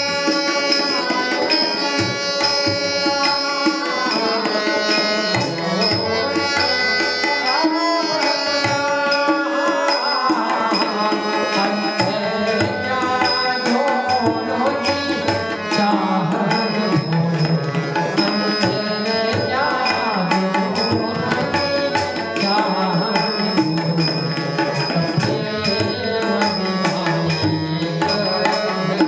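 Instrumental interlude of a Hindi devotional bhajan: a harmonium plays the melody in held, reedy notes over a steady tabla rhythm.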